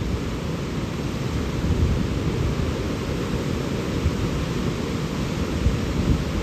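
Powerful rushing water, a steady deep roar of a large river flow with no breaks.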